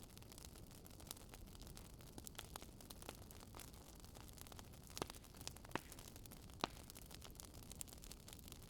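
Wood fire burning in a fireplace, crackling quietly: irregular small snaps over a low steady hiss, with a few louder pops about two-thirds of the way through.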